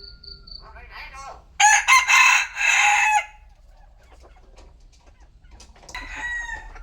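A rooster crows once, loudly, about a second and a half in; the crow lasts about a second and a half. A shorter, fainter chicken call follows near the end.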